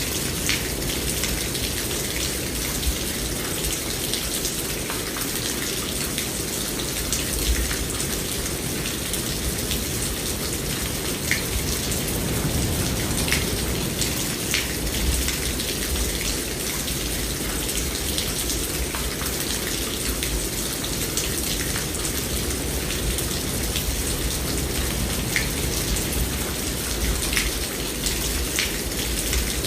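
Steady heavy rain falling on a surface, a continuous hiss with many scattered individual drops ticking through it.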